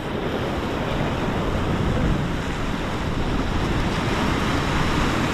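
Ocean surf washing steadily against the jetty, with wind noise on the microphone.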